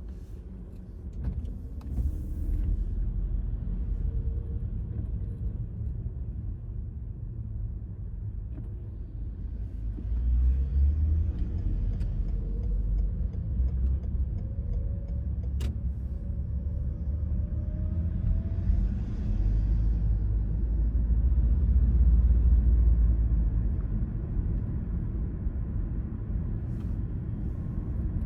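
Car driving on suburban streets: a steady low rumble of road and engine noise that swells louder about ten seconds in and again around twenty seconds, with a faint engine note rising a little past the middle and a single sharp click near sixteen seconds.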